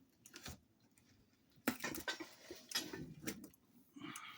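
Light clinks, taps and knocks of household items being handled and set down on a table: a couple of small clicks, then a run of clattering knocks from about one and a half seconds in.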